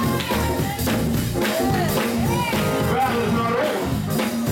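Gospel church band playing: held organ-style chords with a steady drum beat and tambourine, and a voice singing or chanting over the music.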